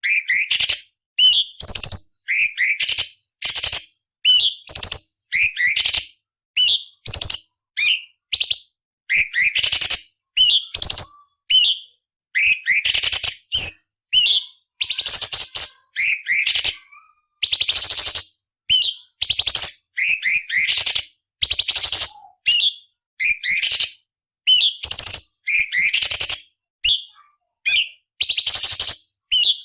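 Orange-bellied leafbird (cucak cungkok) singing rapidly and without pause. Sharp upslurred whistled notes alternate with harsh, scratchy rasping phrases, each phrase well under a second long with brief gaps between them.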